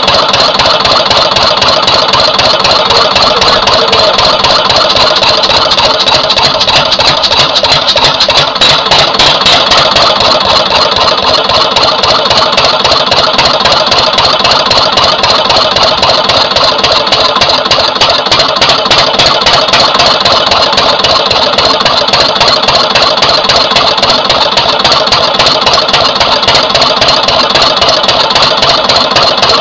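Twin-cylinder Lister CS stationary diesel engine running steadily with a loud, even clatter of rapid beats. After its fuel pumps were balanced it runs better, but its second cylinder is still firing slightly weaker than the first.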